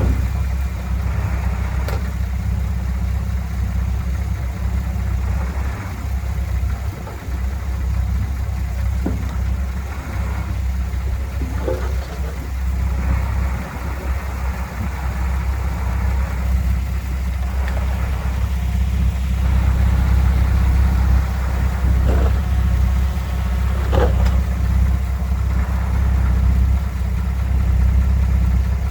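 Heavy diesel engine of earthmoving equipment running steadily, with a few brief knocks now and then.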